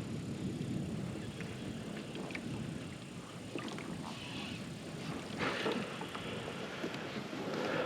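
Water lapping and sloshing against a fishing kayak's hull in choppy wind, with a few light knocks and clicks and a swell of splashing about five seconds in.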